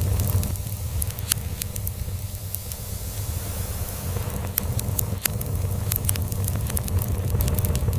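Log fire crackling, with sharp irregular pops and snaps, over a steady low cat purr.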